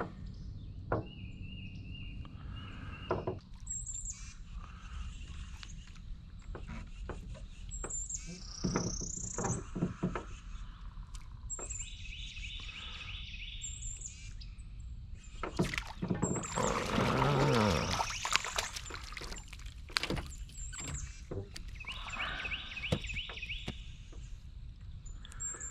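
Birds singing outdoors: a buzzy trilled phrase repeated three times, about ten seconds apart, among short high chirps. Scattered clicks and knocks, with a louder noisy stretch about two-thirds of the way through.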